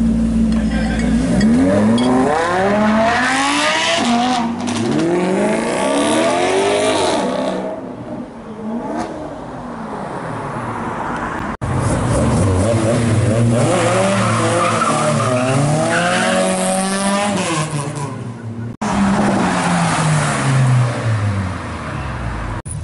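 Performance cars accelerating hard away one after another, engine notes climbing and dropping as they rev up through the gears. First a Lamborghini Huracán's V10 moves off from a steady idle, then a Ford Escort, then a further car.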